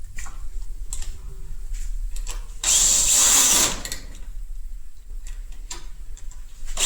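A power tool runs in one short burst of about a second near the middle, among scattered clicks and knocks from handling.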